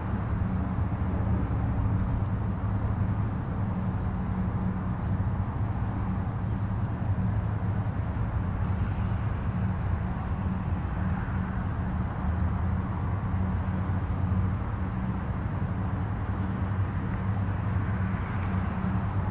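Distant highway traffic: a steady low rumble and tyre hiss with a constant low hum, swelling slightly as vehicles pass now and then.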